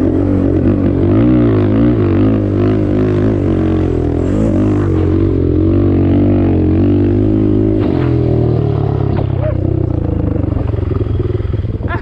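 Single-cylinder off-road engine being ridden, its revs rising and falling with the throttle. About eight seconds in it settles to a lower, steadier run.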